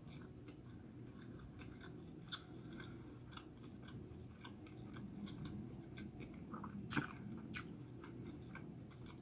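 Faint chewing of a vegetable sushi roll, with small crunches and soft mouth clicks scattered throughout; one slightly louder click about seven seconds in.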